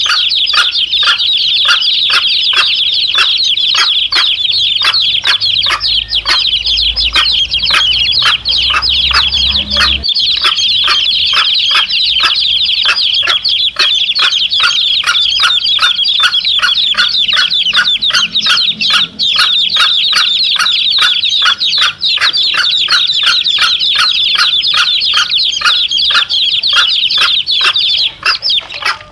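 Domestic chicks peeping continuously in a dense, high chorus, with a mother hen clucking among them in a quick, even rhythm.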